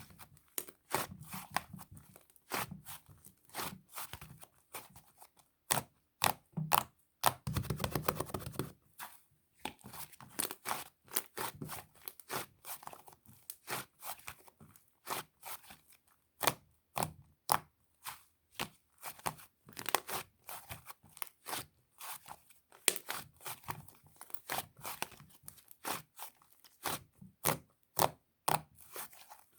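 Soft, sticky slime being pressed, poked and stretched by hand, giving irregular sticky clicks and pops a few times a second, with a longer crackling stretch about eight seconds in.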